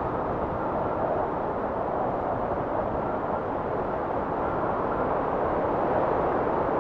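Blizzard wind blowing steadily, a dense rushing noise with gentle swells and no gusts or breaks.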